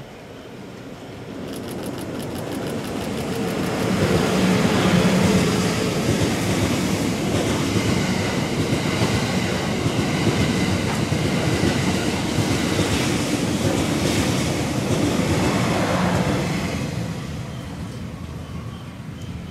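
E001 TRAIN SUITE Shiki-shima cruise train passing through a station at speed without stopping: the rumble builds as it approaches, its wheels clatter as the cars go by, and the sound fades near the end as the last car leaves.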